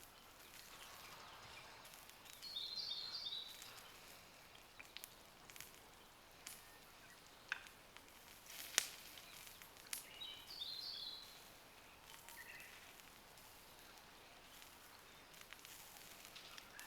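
A bird calling twice, each time a short run of quick high chirps, over faint ambient noise, with a few faint sharp clicks in between.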